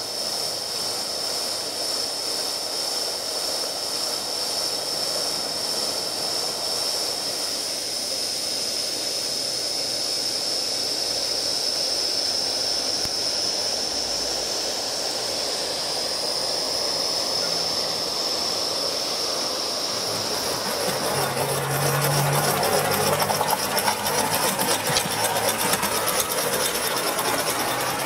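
Gauge 1 live-steam model C4 Atlantic locomotive hissing steadily with escaping steam. About twenty seconds in, a rapid, even beat of exhaust chuffs comes in and the sound grows louder as the engine gets going.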